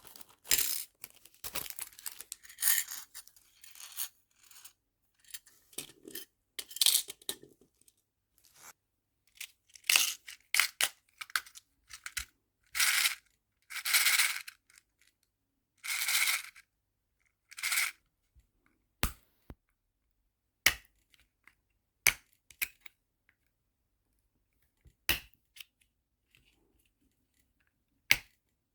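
Small nail-art charms being handled and sorted into storage boxes: a series of short rattling, rustling bursts, then a few sparse sharp clicks near the end.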